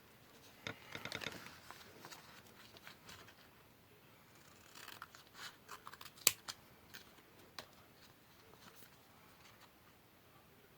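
Scissors cutting paper: a run of quick snips about a second in, a cluster of snips in the middle, and a single sharp click a little past halfway that is the loudest sound.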